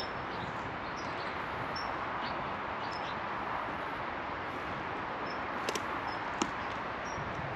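Small birds chirping in short, high notes, repeated every second or so over a steady outdoor rushing background, with a couple of sharp clicks a little before the end.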